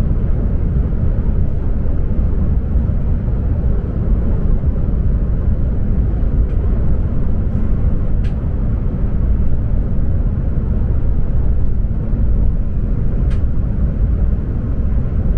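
Steady low rumble of an E7 series Shinkansen running at speed, heard from inside the passenger cabin. Two faint ticks, about halfway and near the end.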